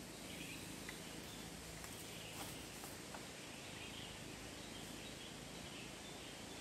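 Faint outdoor ambience: a steady hiss with scattered faint chirps and a few light clicks about two and a half seconds in.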